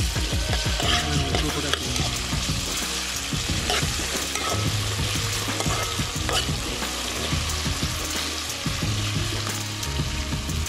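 Food sizzling and frying in hot oil in a pot over a wood-fire stove, stirred, with steady crackling.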